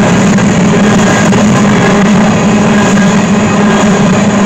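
Covered hopper cars of a freight train rolling past close by: a loud, steady run of steel wheels on the rails, with a low hum underneath.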